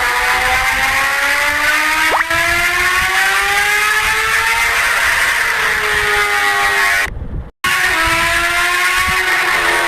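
Motorcycle engine running under way: its pitch climbs steadily for the first few seconds, as when accelerating, then levels off. The sound cuts out for about half a second near the end, and the engine is then heard rising again.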